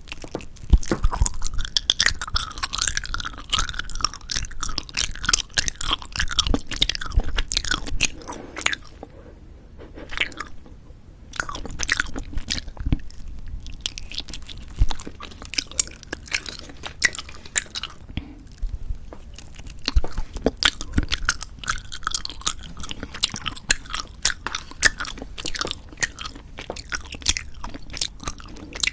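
Close-miked chewing of novelty jelly candy: soft bites and wet, sticky squelching and crackling mouth sounds, with short pauses.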